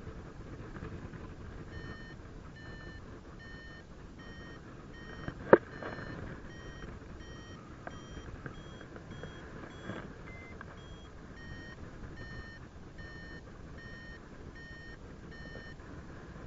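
Paragliding variometer beeping its climb tone: short beeps about twice a second, their pitch rising a little in the middle and falling back again, the sign of the glider climbing in lift. Wind noise runs underneath, and a sharp click about five and a half seconds in is the loudest sound.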